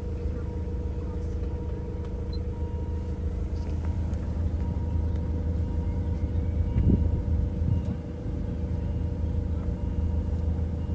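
A vehicle engine running steadily: a low rumble with a constant hum over it, swelling briefly about seven seconds in.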